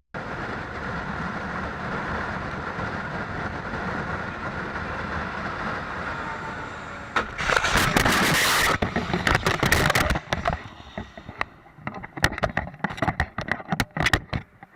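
Steady wind and engine noise of a motorcycle at highway speed. About seven seconds in, a sudden loud impact and clatter as a loose car tire strikes the rider, followed by a run of irregular knocks and scrapes.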